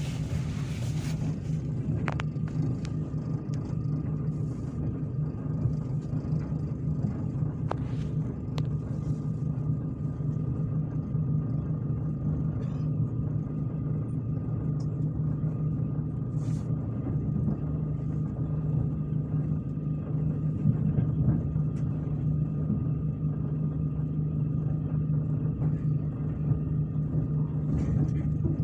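Steady rumble of a passenger train running, heard from inside the carriage, with a faint steady whine above it and a couple of light clicks.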